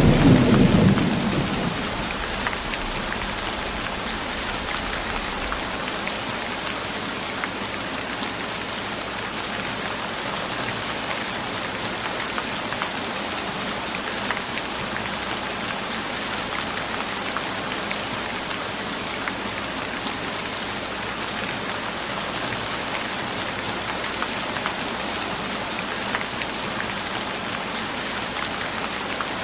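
Steady rain falling, an even hiss with scattered drop ticks. A low thunder rumble dies away in the first second or two.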